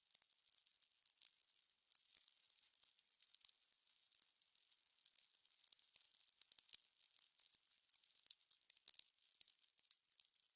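Fire crackling: a steady stream of small, irregular pops and snaps over a faint hiss.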